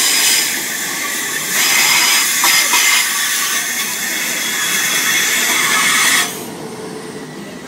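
Passenger train running past the platform: steady rail and wheel noise with a hiss and a few high tones, cutting off sharply about six seconds in as it clears.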